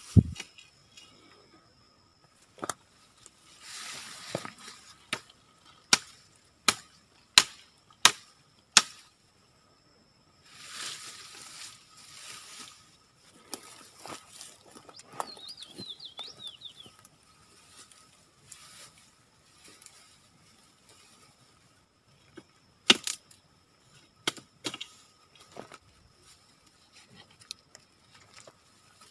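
A series of sharp knocks or strikes, about six spaced under a second apart, then a second cluster near the end. Bouts of rustling come between them, and a brief bird chirp sounds in the middle.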